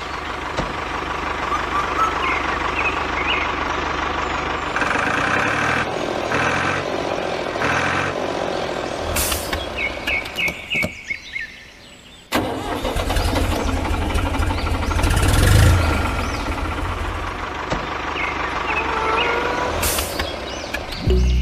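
Truck engine running, fading down about ten seconds in, then starting up again abruptly with a heavier low rumble.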